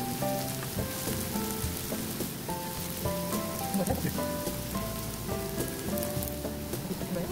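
Julienned sweet potato sizzling and crackling steadily in a little oil in a frying pan, with light background music of short melodic notes over it.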